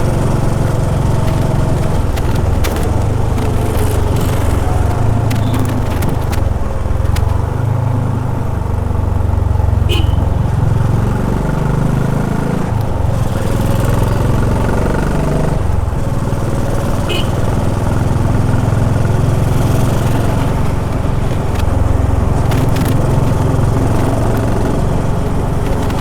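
Honda H'ness CB350's air-cooled single-cylinder engine running in city traffic, its pitch sweeping down and up a couple of times about halfway through as the revs change.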